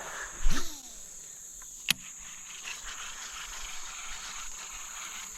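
Summer insects buzzing steadily in a high band, with a brief loud whoosh of a fishing cast about half a second in and a single sharp click near two seconds.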